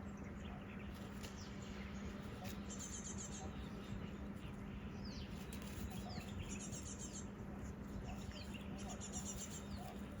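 Birds chirping: short high trills repeating every two to three seconds, with quick falling chirps between them, over a steady low hum.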